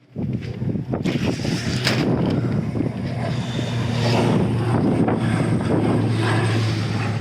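Storm wind buffeting a phone's microphone in loud, irregular gusts, with a steady low hum underneath. It starts suddenly.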